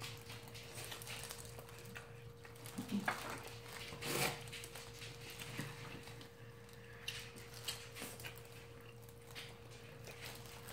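Faint chewing and mouth sounds of people eating fried chicken, with scattered small crunches and clicks, the loudest about three to four seconds in. A steady low hum runs underneath.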